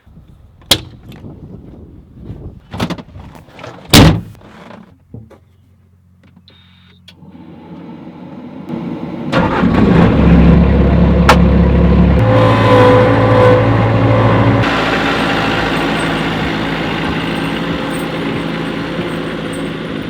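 A few clunks, the loudest about four seconds in, then a skid steer's engine starting, coming up to full loudness about halfway through and running steadily.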